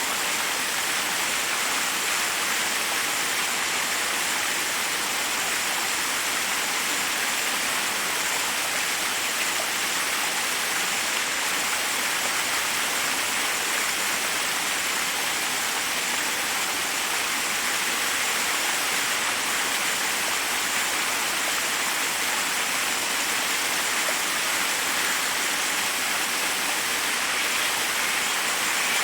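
Forest waterfall: water cascading over rocks in a steady, unbroken rush.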